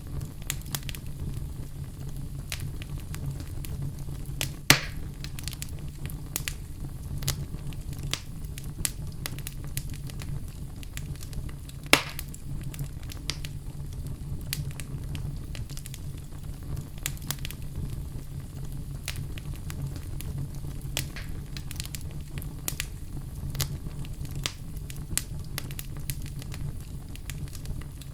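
Wood fire in a fireplace crackling, with frequent sharp pops over a steady low rumble. Two louder pops come about 5 and 12 seconds in.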